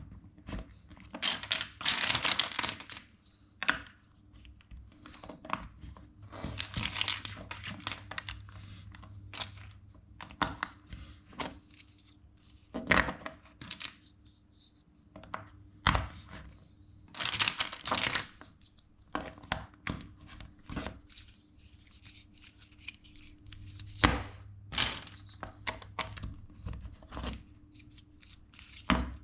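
Plastic LEGO bricks being handled: irregular sharp clicks and rattles as pieces are picked up and pressed together, with short bursts of rustling between them.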